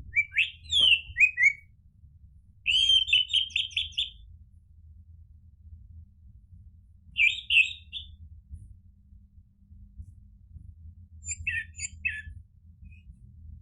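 Orange-headed thrush singing in four short bursts of quick, chirpy phrases with pauses between them, the second a rapid run of repeated notes. A faint low hum runs underneath.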